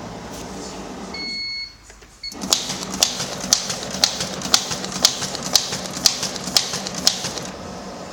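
A repaired LF-870 machine running a function test: a steady hum, a beep about a second in, a brief lull and a second short beep, then a run of sharp mechanical clicks about twice a second for some five seconds before it settles back to the hum.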